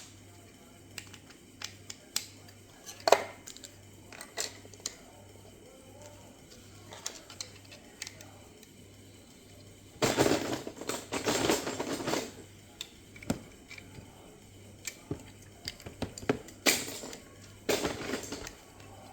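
Plastic Lego bricks clicking and clattering as they are handled: scattered single clicks, then a burst of rattling about ten seconds in and another shorter one near the end.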